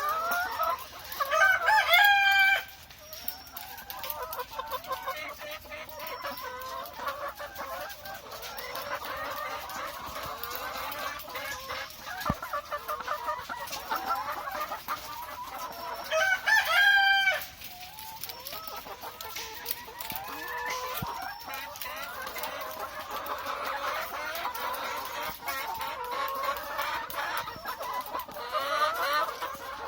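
A flock of caged chickens clucking continuously, and a rooster crowing loudly twice, about two seconds in and again about sixteen seconds in.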